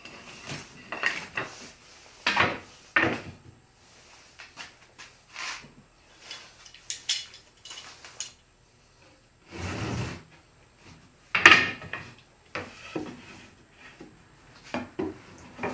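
Pieces of wood being handled and fitted together on a workbench: a series of scattered knocks and clatters, with a duller thud about ten seconds in and the sharpest knock just after it.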